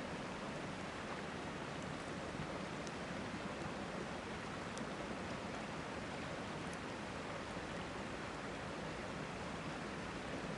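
Steady rushing of a river or stream, with a few faint pops from a campfire about three, five and seven seconds in.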